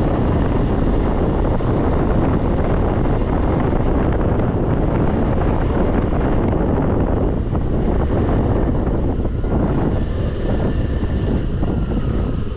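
Steady wind rushing over the microphone of a scooter being ridden at speed, mixed with its engine and road noise; it eases slightly near the end.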